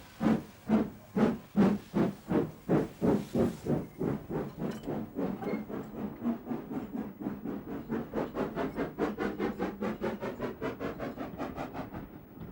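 Steam locomotive working a train, its exhaust beats chuffing regularly and quickening as it gathers speed, from about two beats a second to about five a second by the end, growing a little fainter.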